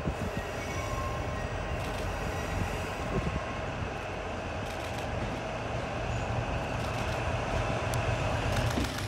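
DD55 diesel locomotive hauling a slow freight train: a steady low engine rumble with the wheels running on the rails, growing a little louder as it approaches. A few faint, brief wheel squeals are heard.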